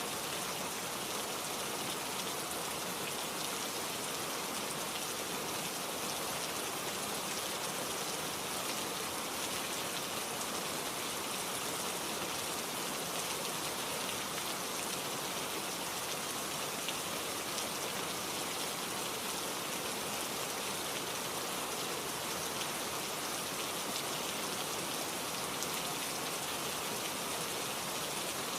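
Steady rain falling, a dense even patter of drops on a surface with no change in intensity.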